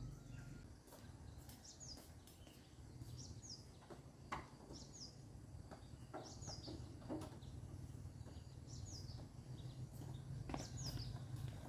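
A bird outside repeatedly gives a short, high, falling call, about every one to two seconds, over a low steady outdoor rumble. A few knocks sound in between, the loudest about four seconds in.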